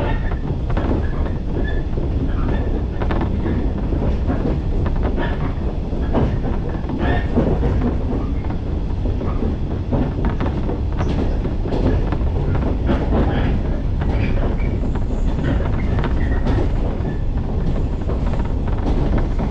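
Inside a moving electric local train: the steady low rumble of the running train, with frequent short clicks and clacks from the wheels on the track.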